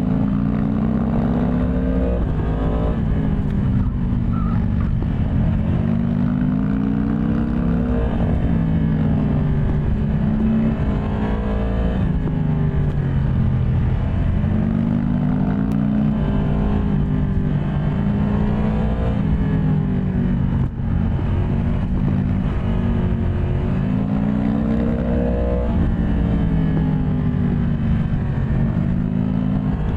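Yamaha MT-10 SP's crossplane inline-four engine under way, its revs climbing and dropping again every few seconds as it accelerates and backs off.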